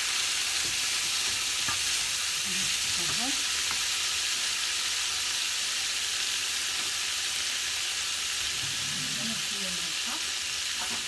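Shrimp searing in hot oil in a frying pan: a steady frying sizzle.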